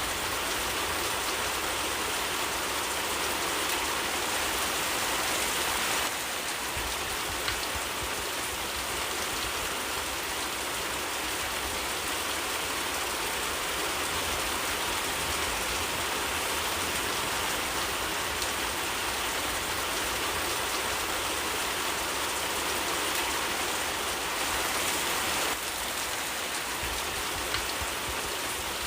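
Steady rain falling, an even hiss with no breaks. The level steps down slightly about six seconds in.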